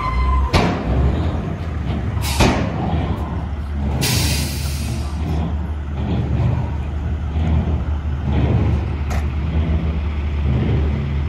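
Heavy diesel engines of the tractors and dump truck running steadily with a low drone, with a couple of sharp knocks early on. About four seconds in comes a burst of air hiss lasting just over a second, like a truck's air brakes releasing.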